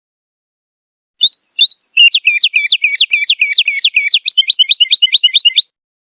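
A woodlark singing one phrase: a few separate whistled notes a little over a second in, then a fast, even run of repeated falling notes, about eight a second, that quickens slightly and stops shortly before the end.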